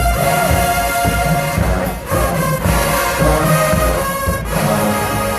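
HBCU marching band playing: a brass section holding loud chords in short phrases, with short breaks about two and four seconds in, over pounding bass drums.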